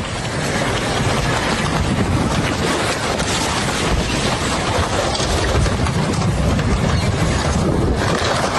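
Floodwater rushing past in a steady, loud roar.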